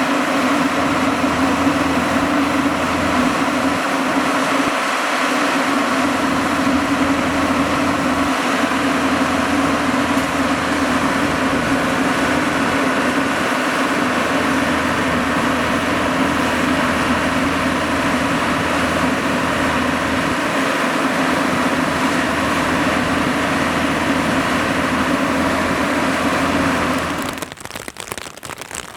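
Heavy farm diesel engine running steadily under a constant load. It cuts away abruptly near the end to a quieter crackling noise.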